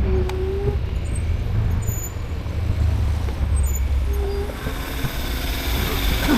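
Outdoor road noise while riding an e-bike: a steady low rumble of wind and road with street traffic. A higher hiss builds over the last couple of seconds, like a vehicle drawing near.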